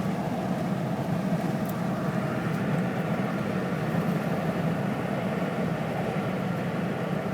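Steady road and engine noise heard from inside a moving 1990 Cadillac, an even low hum without changes.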